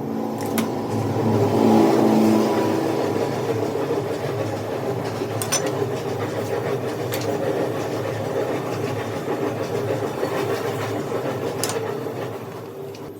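A vehicle engine running steadily, swelling to its loudest about two seconds in, with a few sharp clicks over it.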